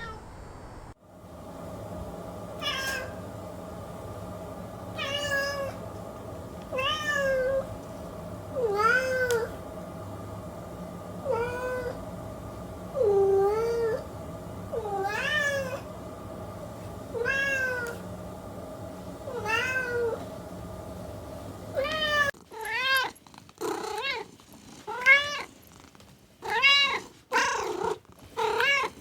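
Kittens meowing: single meows about every two seconds over a steady background hum, then, after an abrupt change about 22 seconds in, quicker and louder meows in close succession.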